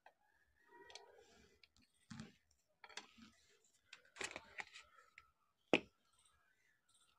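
Faint clicks and scrapes of a hand tool undoing a nut on the rear housing of an angle grinder. A sharp click comes near the end.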